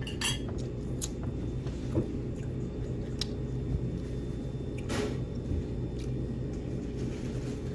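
Steady low hum of room noise with a handful of short clicks and taps from eating and handling dishes, the sharpest about five seconds in.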